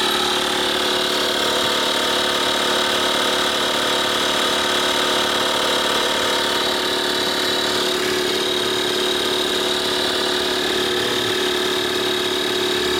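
12 V portable tyre inflator's compressor running steadily, pumping up a car tyre, with an even hum and a high whine.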